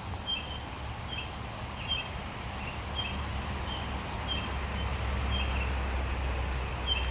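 A bird calling repeatedly: a short, high call about once a second, over a steady low rumble.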